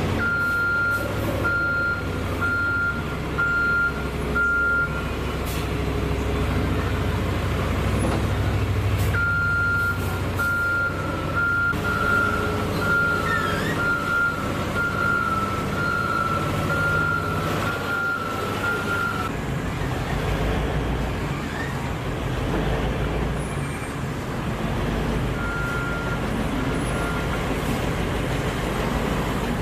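Back-up alarm on heavy mining equipment beeping in runs over a diesel engine running steadily. The beeping stops after about five seconds, starts again for about ten seconds, then comes back briefly near the end.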